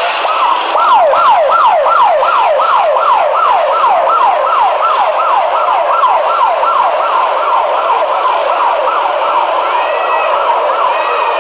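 Police siren sounding a fast repeating sweep, about three quick downward whoops a second, over steady traffic noise.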